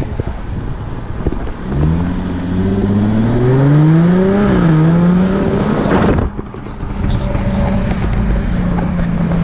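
Jaguar F-Type engine heard from the open-top cabin, revving up under acceleration with a rising note, a brief dip in pitch at a gear change, then climbing again. About six seconds in the throttle is lifted and the note cuts off sharply, settling to a steady low drone as the car cruises.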